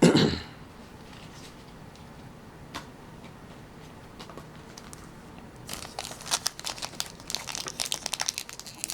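A foil trading-card booster pack crinkling and being torn open, a dense run of crackly rustling that starts about two thirds of the way in. Before it there is a short loud burst at the very start, then a quiet stretch with one faint click.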